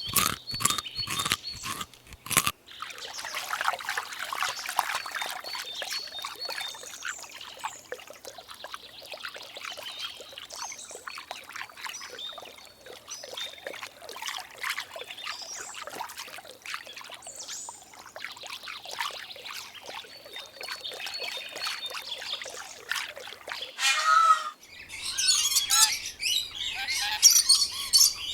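Birds chirping over a long stretch of rustling, crackly noise, with louder squawking calls near the end. A short run of evenly spaced clicks comes at the start.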